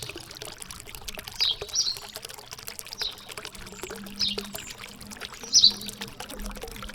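Water trickling and splashing steadily, with a small bird giving short, high chirps every second or so, some in quick pairs.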